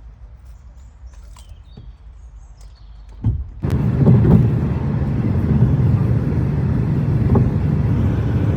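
Car road noise heard from inside the car: a low rumble with a few faint clicks, then a thump about three seconds in and a sudden jump to a much louder, steady rumble and rush of wind and road noise.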